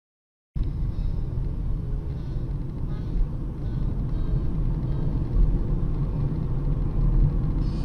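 Road and engine noise of a moving car, a steady low rumble that cuts in abruptly about half a second in.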